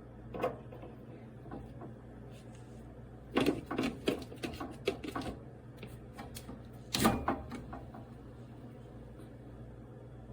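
Stainless steel French press pot and its parts being handled, knocking and clinking: a click shortly after the start, a run of knocks and clicks in the middle, and one loudest knock about seven seconds in.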